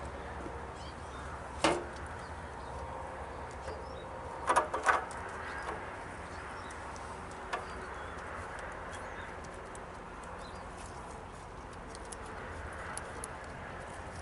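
A few sharp clicks and knocks over steady low background noise: one about two seconds in, a quick pair a little under five seconds in, and a lighter one a little later.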